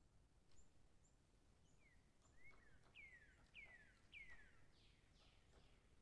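Faint backyard songbird song: a run of clear whistled notes, each sliding downward in pitch, repeated about twice a second through the middle, with short high chips before them.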